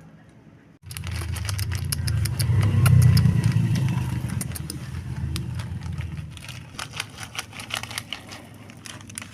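A low engine rumble starts suddenly about a second in, swells to its loudest about three seconds in and then slowly fades, like a motor vehicle passing close by. Many sharp clicks and crackles sound over it.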